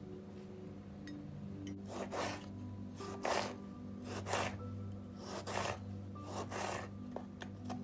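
About eight short rasping strokes, some in quick pairs, scraped against something over soft background music.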